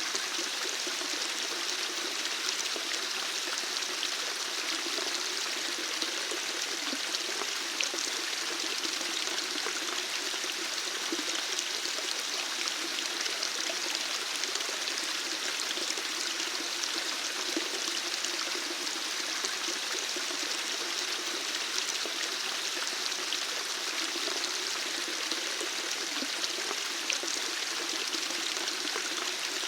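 Running water, flowing steadily and evenly with small splashes and drips in it.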